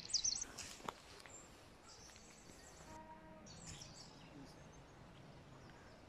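Wild birds chirping in short, high calls, mostly in the first second and again around the middle, over a faint outdoor hiss. A single sharp click comes about a second in.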